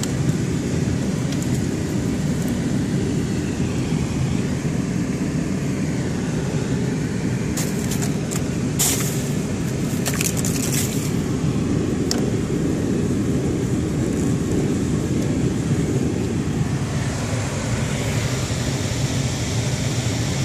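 Car defroster blower running steadily inside the cabin, a low even rush of air, with a cluster of sharp crackles and clicks about eight to twelve seconds in.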